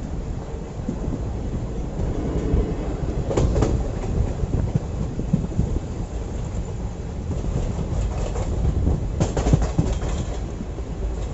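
Passenger train running at speed: a steady low rumble with wheels clacking over rail joints, in a cluster about three seconds in and again near the end.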